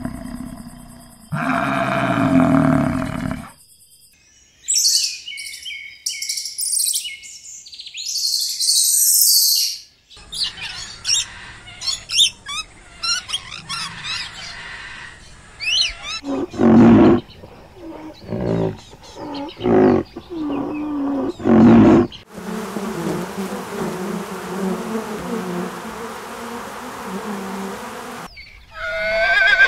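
A run of separate farm-animal calls, one after another, including high bird chirping.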